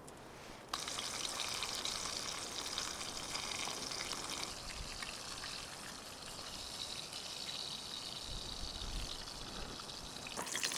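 Trout frying in a hot pan on a propane stove: a steady sizzle that starts suddenly about a second in, as the seasoned fish goes into the oil.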